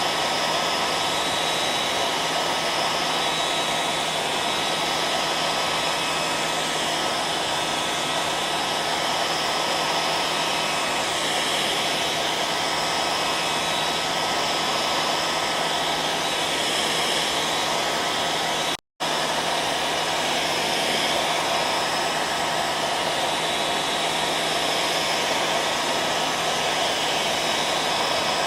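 Hair dryer running steadily: an even rushing blow of air with a faint motor hum underneath. It cuts out for a split second about two-thirds of the way through, then carries on unchanged.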